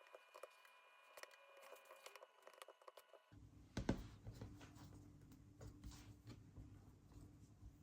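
Near silence with faint clicks and crinkling handling sounds. About three seconds in the background changes to a low hum, and there is one sharper tap soon after.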